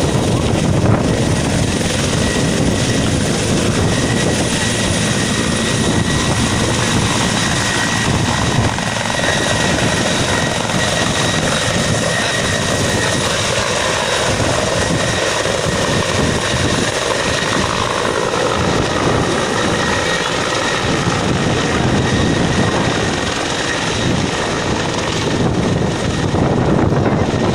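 Helicopter taking off at close range: loud, steady rotor wash and turbine engine noise with a thin high whine running through it.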